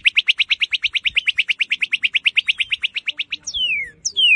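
Northern cardinal singing: a fast trill of short repeated notes, about a dozen a second, then, about three and a half seconds in, two clear whistles that slide down in pitch.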